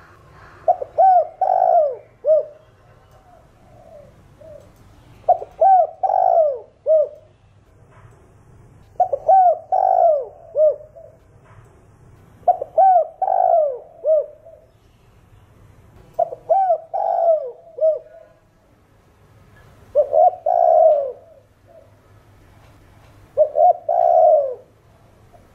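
Spotted dove (Streptopelia chinensis) cooing its song, a voice Vietnamese keepers call thổ đồng: a phrase of several short arching coos, repeated seven times about every three and a half seconds.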